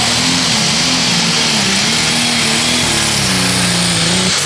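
Competition pulling tractor's engine running loud and hard under full load as it drags the sled. The engine note wavers and sinks slightly in pitch toward the end.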